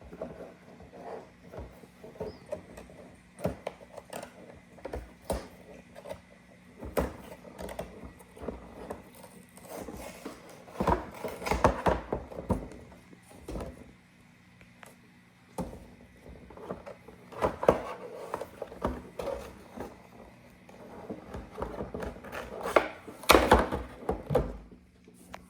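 Toy truck packaging being opened by hand: cardboard and plastic rustling and crinkling, broken by many sharp clicks and knocks, with louder bouts of tearing and handling a few times.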